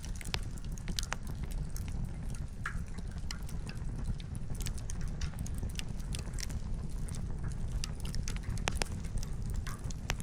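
Wood campfire crackling, with many sharp pops of split firewood at uneven intervals over a steady low rumble.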